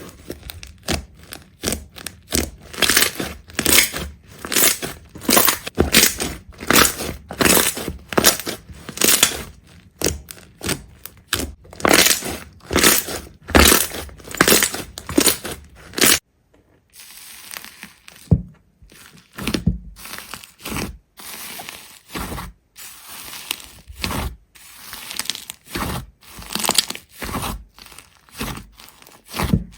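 Repeated crunching and crackling, about two strokes a second, as something brittle is crushed or broken over and over. About 16 seconds in it cuts abruptly to quieter, sparser crunches.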